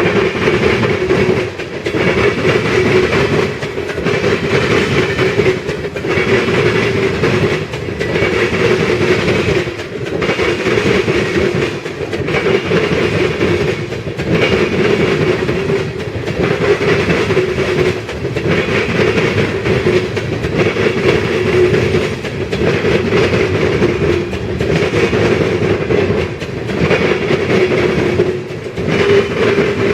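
Freight cars of an ethanol unit train rolling past, their wheels clacking over the rail joints. The level swells and dips about every two seconds as each car goes by.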